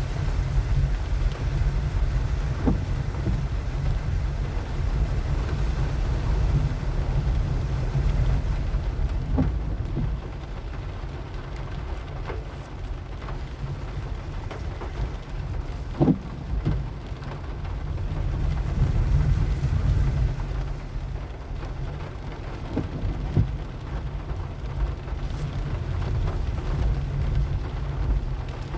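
Inside a car driving in the rain: a steady low rumble of engine and tyres on a rough, wet road, with a haze of rain on the car. Now and then there is a short knock, one of them louder about halfway through.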